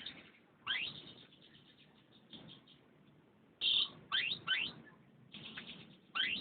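Domestic canary singing: bursts of quick chirps and sharp upward-sweeping notes, in short phrases separated by brief pauses.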